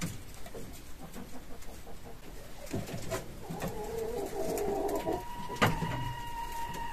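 A bird calling: a low, wavering coo-like call for about two seconds, then a steady, higher single note held for over two seconds. A sharp knock comes partway through the higher note.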